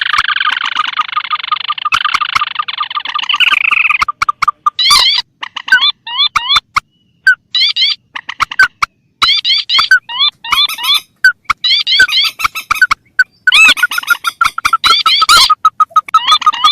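Recorded lure calls of marsh birds, swamphens and crakes: fast series of short, curved chirping notes repeated over and over, with a rapid stuttering call underneath. The calls break off abruptly into short silences several times, as an edited loop does.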